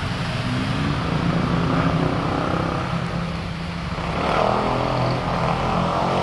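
A motor running steadily under a noisy hiss, growing a little louder about four seconds in.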